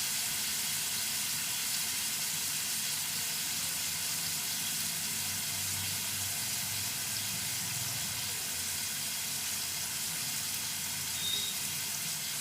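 Chicken pieces with ginger-garlic paste frying in a little hot oil in a pan, giving a steady sizzle.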